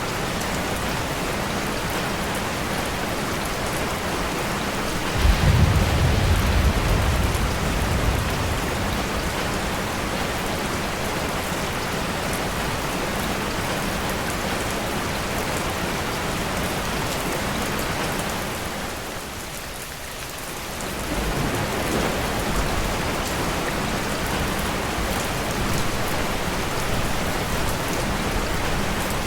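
Steady rain falling. About five seconds in, a sudden deep rumble of thunder starts and fades away over a few seconds. The rain dips briefly about twenty seconds in, then comes back up.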